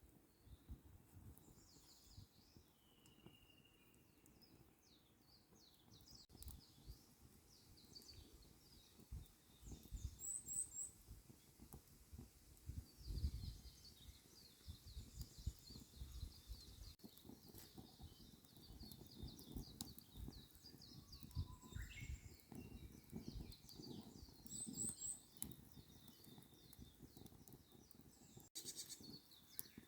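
Small birds chirping and twittering in quick short calls, over the low, fluttering rumble of a campfire burning with a few sharp pops.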